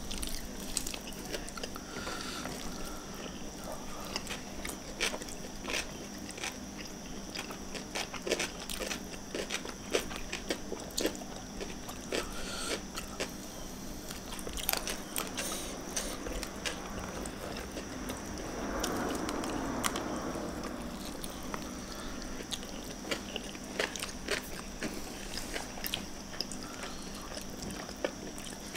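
Close-up mouth sounds of eating by hand: chewing and crunching of fried tempe, fish and rice, with many small wet clicks and smacks. A faint steady hum runs underneath, and a softer rushing sound swells for a couple of seconds about two-thirds of the way through.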